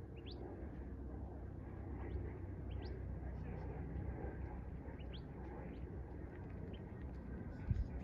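Bird calls: a handful of short, rising chirps spaced a second or two apart, over a steady low rumble.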